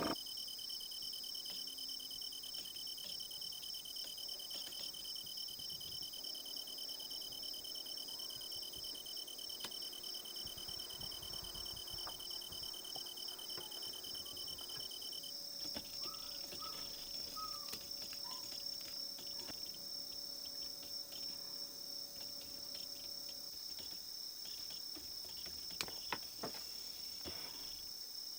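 Crickets trilling steadily in a high, finely pulsed chorus, with a lower trill that drops out about halfway through. Light scattered clicks sound in the second half.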